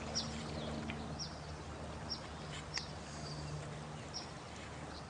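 A bird repeating short, high chirps that fall in pitch, about once a second, over a steady hiss of running water.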